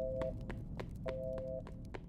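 A two-note electronic alarm beeping, each beep about half a second long and repeating about every second and a quarter, over a low steady hum. Quick footsteps on a hard floor walk away and grow fainter.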